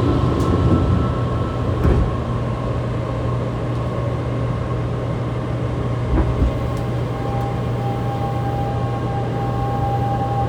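Interior running noise of a Fukuoka City Subway 2000-series train with Hitachi GTO-VVVF inverters, over a steady air-conditioning hum. The doors thump shut about two seconds in. About six seconds in there is a jolt as the train starts off, and a steady inverter tone sets in.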